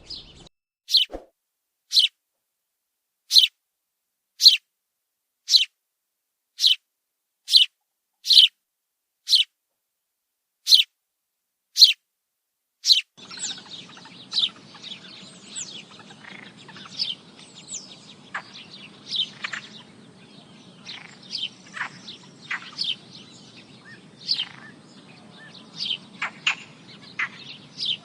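House sparrows chirping. For the first half, single sharp chirps come about once a second with dead silence between them; from about halfway, many chirps overlap in a busy, continuous chatter over a steady background hiss.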